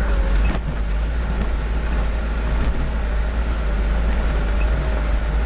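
Steady low engine rumble, with a faint wavering whine above it.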